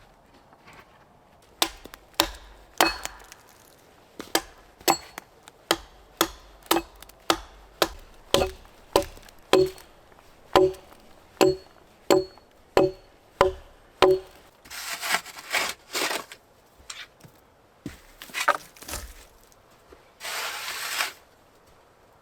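Wood being chopped with an axe: a steady run of sharp blows about two a second, each with a short ringing knock. After about fourteen seconds the blows stop and a few short rough scraping noises follow.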